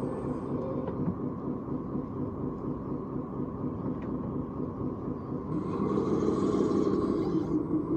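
Radio-controlled construction model machinery running with a steady engine-like drone. It grows louder about five and a half seconds in, and a higher hiss joins it for about two seconds.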